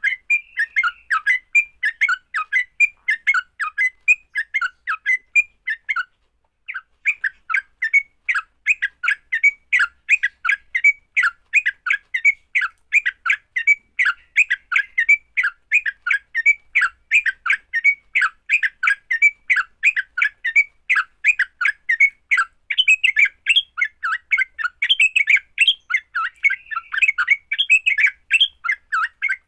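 Sooty-headed bulbul (trucuk) giving its fast, aggressive 'fighting' song: a rapid, unbroken string of short chirping notes, with one brief pause about six seconds in.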